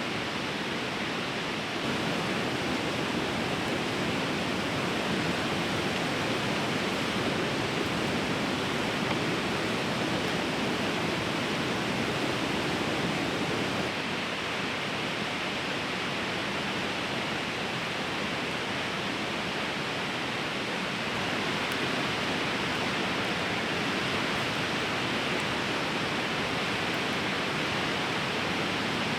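A fast, swollen river rushing steadily, an even wash of water noise.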